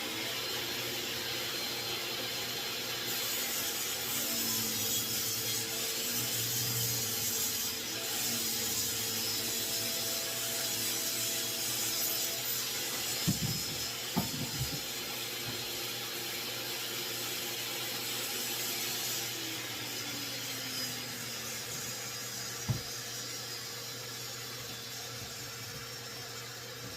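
Table saw running and cutting red oak, with the blade's hiss growing louder from about three seconds in to nearly twenty seconds over the motor's steady hum. A few sharp knocks come in the middle and one more near the end.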